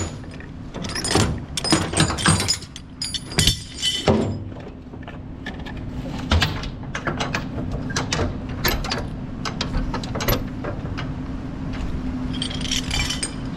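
Steel load-securing chain clanking and rattling as it is handled and hooked, in quick clusters early on and in scattered single clanks later, over a steady low hum.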